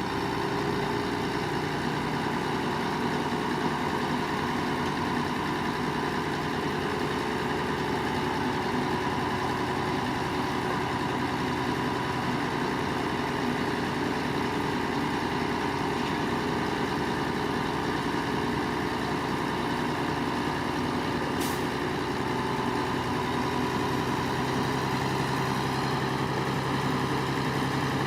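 Heavy diesel engine of a construction machine, most likely the dump truck, running steadily at a constant pitch. Its low hum grows stronger near the end, and there is a single brief click about three-quarters of the way through.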